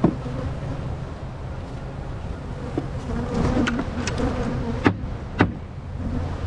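A mass of honey bees buzzing steadily. A sharp knock comes at the start and two more close together about five seconds in.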